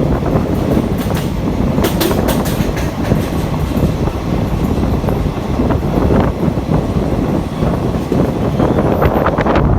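Train running on the track: a steady rolling rumble with the wheels clattering over rail joints, and a cluster of sharp clicks about two seconds in and again near the end.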